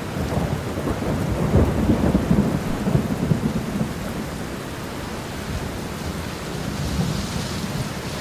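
Steady rain with a low rumble of thunder in the first few seconds, easing to an even rain hiss.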